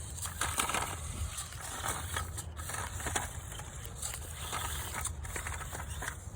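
Cheap 1:14 4WD RC climbing truck driving over rough outdoor ground, its tyres crunching and scraping over the terrain in irregular bursts, with a steady low wind rumble on the microphone.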